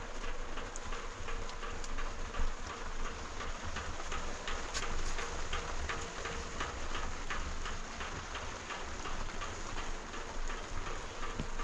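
Steady rain falling, with many small drops ticking sharply all through.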